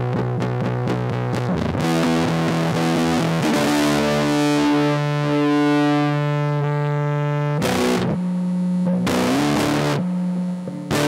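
Electric guitar played through a Big Ear Pedals LOAF fuzz pedal: quick repeated muted notes on one low note, then fuzzy chords left to ring for several seconds, then more chords with a bend before a short stop and a fresh strum near the end.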